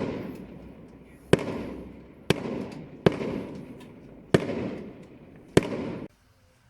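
Fireworks exploding over the city: a run of sharp bangs roughly a second apart, each trailing off in echo, cutting off suddenly about six seconds in.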